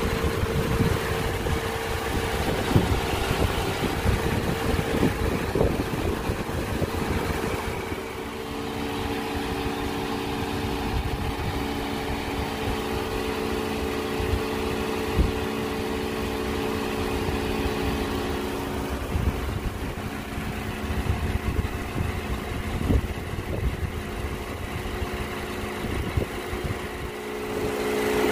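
Toyota Harrier's M20A-FKS 2.0-litre inline-four petrol engine idling steadily, heard under the open hood.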